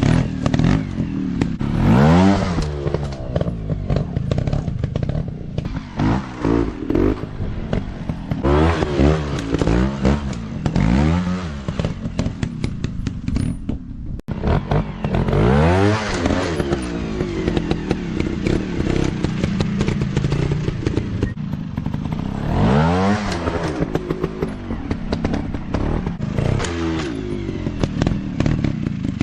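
Dirt bike engine revved hard again and again, its pitch climbing and falling every few seconds, with clattering and scraping mixed in.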